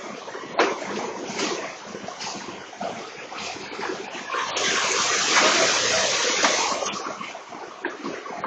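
Floodwater splashing and rushing, with irregular splashes throughout and a louder, sustained surge of spray for about two seconds in the middle.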